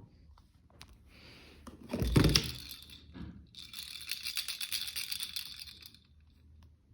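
Household objects being handled: a thump about two seconds in, then a few seconds of crinkling, clattering rustle.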